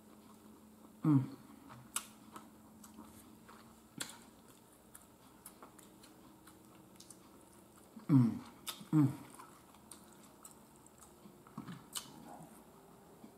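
A person chewing a mouthful of shrimp-boil food close to the microphone, with scattered wet clicks and smacks of the mouth. Three short hums break in, about a second in and twice around eight to nine seconds.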